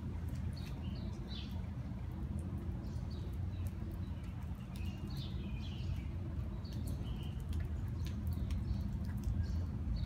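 Small songbirds chirping in short, scattered calls, several overlapping, over a steady low background rumble.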